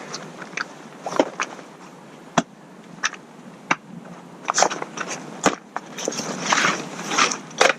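Irregular sharp clicks, knocks and rustling as a collapsible camping chair is pulled out and handled, its frame clacking and its fabric rustling.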